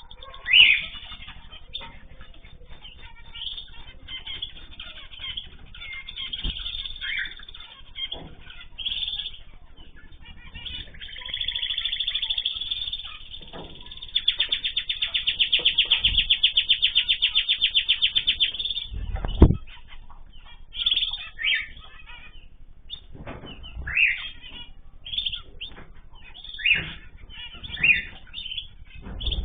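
Small cage birds in an aviary chirping in short calls, with wings flapping. In the middle comes a long, rapid, evenly pulsed trill lasting several seconds, and it ends with a single sharp thump.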